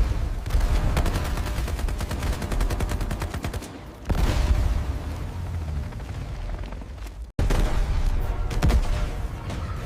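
Rapid machine-gun fire, a fast run of shots, then a heavier blast about four seconds in. A sudden break follows before more gunfire and impacts.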